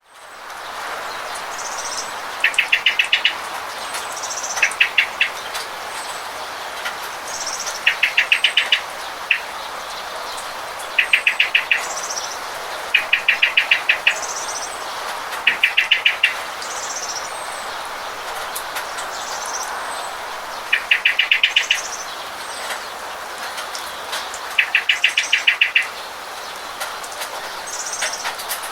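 Steady rain hiss with a bird calling over it again and again: short rapid trills of about six to eight notes every two to three seconds, the loudest sounds, with fainter high chirps in between.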